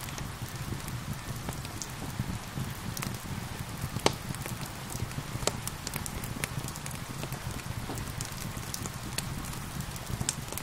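Steady rain with a low rumble, under frequent sharp pops and crackles from a burning wood fire. The loudest pop comes about four seconds in.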